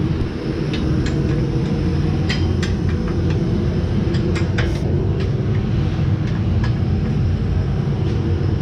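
A steady low rumble, with a scattering of sharp metallic clinks and knocks from hand tools and exhaust parts being handled.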